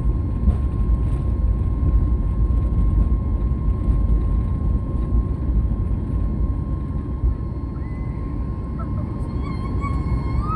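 Passenger airliner taking off: a loud, steady low rumble from the engines and the roll, with a thin, steady high whine running through it.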